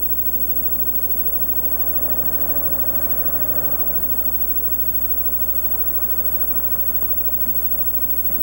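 Car engine running as the car comes along a dirt track, faint under a steady low hum and hiss. The engine is clearest about two to four seconds in.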